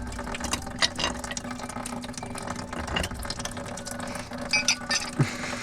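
A wind-down musical toy's works clicking and ratcheting over a steady low hum, with a few short high notes of its tune about four and a half seconds in. It is running slowly.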